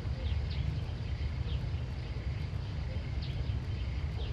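Outdoor ambience: short, high, downward-sweeping bird chirps repeating irregularly about every half second, over a steady low rumble.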